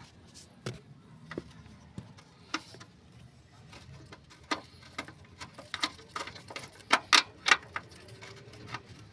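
Irregular clicks, taps and knocks of hand work on car parts, with a cluster of louder knocks about seven seconds in.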